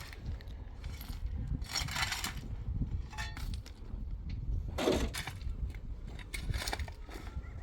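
Irregular clinks and scrapes of hard objects knocking together, over a steady low rumble.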